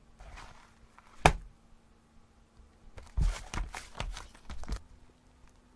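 Slime being handled, giving a sharp click about a second in and then a run of several sticky pops and clicks.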